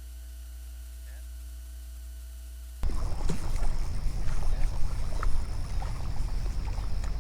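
A steady low electrical hum with a few fixed tones that cuts off abruptly about three seconds in. It gives way to a louder, uneven low rumbling noise with scattered small clicks and knocks.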